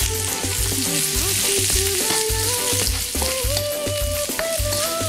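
Red onion and garlic sizzling in hot oil in a non-stick wok, stirred with a plastic spatula. A background music track with a stepping melody and a regular bass beat plays underneath.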